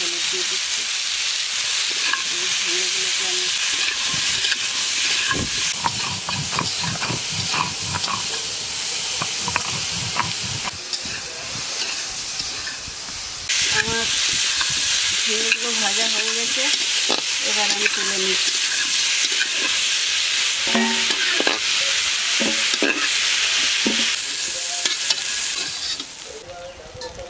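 Ridge gourd pieces frying in hot oil in a kadai: a steady sizzle with a spatula stirring and scraping against the pan in short clicks. The sizzle drops off sharply near the end.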